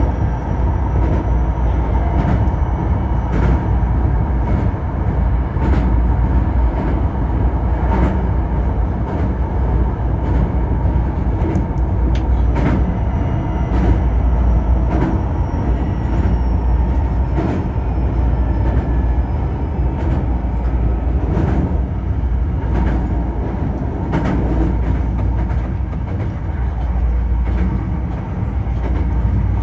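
Hankyu Kyoto Line electric train running along the line, heard from inside the front car: a steady low rumble with irregular clicks of the wheels over rail joints every second or two and a faint high whine.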